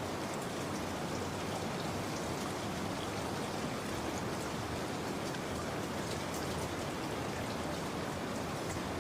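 Steady rain falling, with the patter of drops on surfaces.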